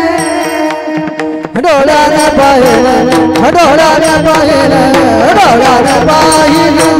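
Marathi devotional abhang sung by a voice with gliding ornaments, over steady held notes and a tabla beat.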